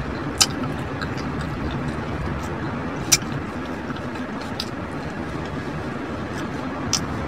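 Eating sounds from a chicken taco: a few sharp mouth clicks, three in all, over a steady low background hum.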